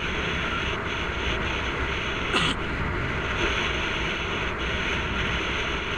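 Wind rushing over the camera's microphone as a bicycle speeds downhill, a steady noise with one brief tick about two and a half seconds in.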